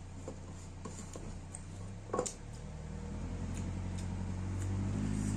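Close-up eating sounds: chewing and small mouth clicks over a steady low hum that grows louder in the second half.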